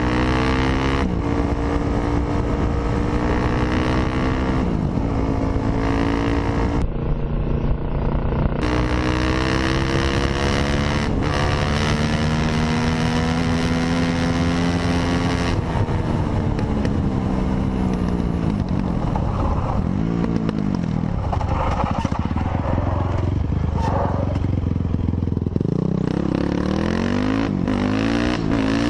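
Dirt bike engine running hard, its pitch climbing and falling over several seconds as the bike accelerates and slows.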